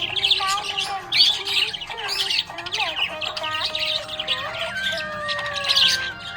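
Budgerigars chirping and chattering in a rapid, busy stream of high chirps, over background music with held notes.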